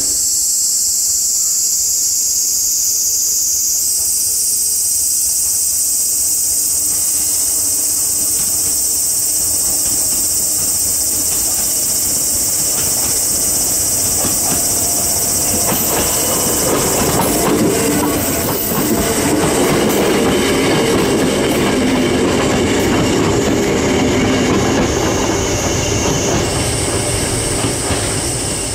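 A steady, loud, high-pitched chorus of summer cicadas. Under it, from about halfway, the rumble of a Hakone Tozan Railway electric train (3000 series and 2000 series cars coupled) grows louder as it approaches, with the wheels clicking over the track and squealing on the tight curve.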